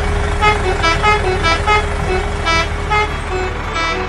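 A horn tooting a run of about ten short notes at changing pitches, over a steady low engine hum.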